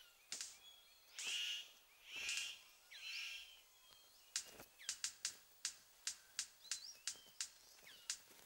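Male superb bird of paradise courting a female: three harsh, hissing calls about a second apart, then a run of sharp clicks at about three a second, with thin chirps between.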